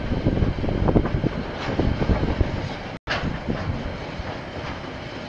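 KiwiRail train rolling past, a steady rumble with wheels clattering irregularly on the rails. The sound drops out for an instant about three seconds in.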